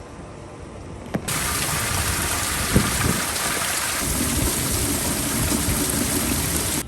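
Heavy rain pouring down as a steady hiss, starting abruptly about a second in and cutting off sharply at the end, with a low thump about three seconds in.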